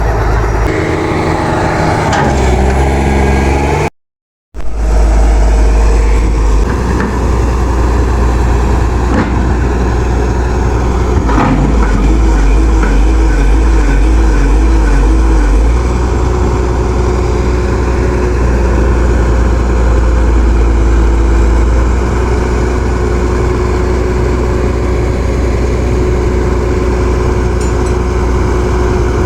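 Backhoe loader's diesel engine running steadily under work, its note shifting several times, with a short break to silence about four seconds in.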